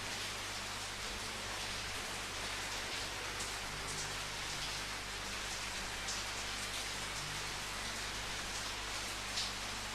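Steady rain falling, with a few louder single drop hits now and then, the sharpest near the end. A steady low hum runs underneath.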